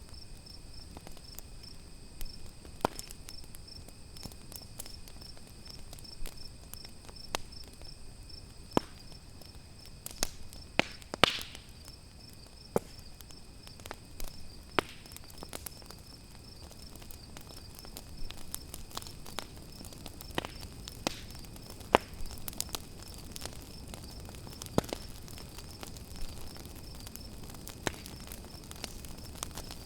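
Campfire crackling, with sharp pops scattered every second or two and a brief hiss about eleven seconds in, over the steady high pulsing trill of crickets.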